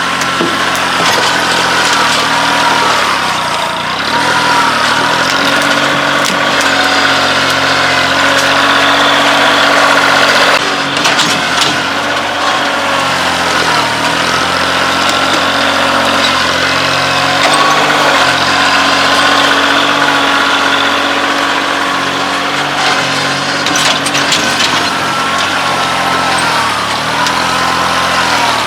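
Kioti CK2610 compact tractor's three-cylinder diesel engine working a loader, its pitch rising and falling every few seconds as it clears rocks, with a few knocks along the way.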